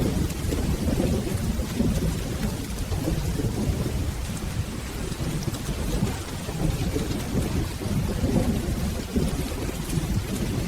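Steady rain with low, rolling thunder rumbling continuously underneath.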